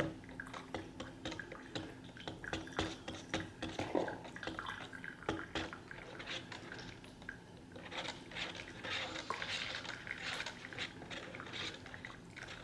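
Coffee being stirred in a disposable cup with a stir stick: irregular small taps, scrapes and liquid swishes, a little denser and busier for a few seconds past the middle.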